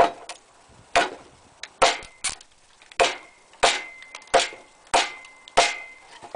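A Kershaw D2 steel machete chopping into green, frozen maple: a steady series of about nine sharp blade strikes into the wood, roughly one every two-thirds of a second.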